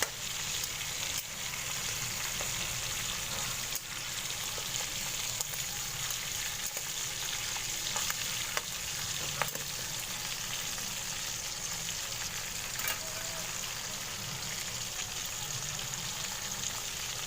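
Chicken frying in a pan for adobo: a steady sizzle with scattered sharp pops and clicks.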